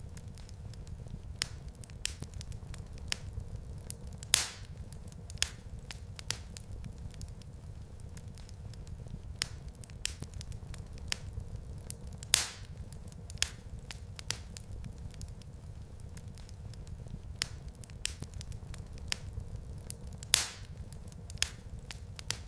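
Wood fire crackling in a fireplace: a steady low rumble of burning with irregular sharp snaps and pops, three of them louder than the rest.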